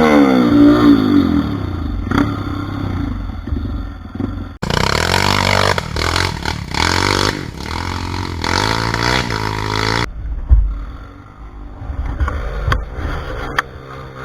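Trail motorcycle engines revving hard on a steep dirt hill climb, the pitch repeatedly rising and falling as the throttle is worked, in short clips cut one after another. A heavy thump comes about ten and a half seconds in.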